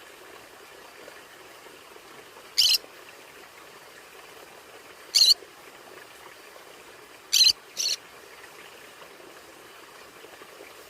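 A conure giving four short, high squawks, a couple of seconds apart, the last two close together, over a faint steady hiss.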